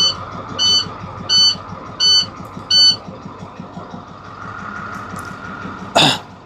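Dashboard warning buzzer of a 2014 International truck beeping about once every 0.7 seconds and stopping about three seconds in, with the MaxxForce diesel engine running steadily under it just after start-up. A short loud burst comes near the end.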